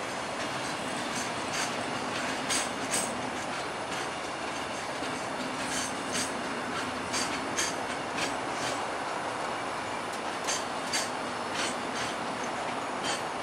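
Loaded container flatcars of a freight train rolling past with a steady rumble, their wheels clicking over a rail joint, the clicks mostly coming in quick pairs.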